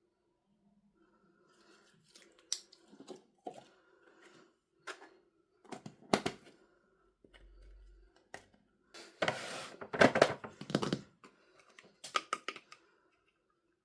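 Hands unpacking surprise items: scattered taps and clicks on packaging, with a longer, louder stretch of crackling about nine to eleven seconds in.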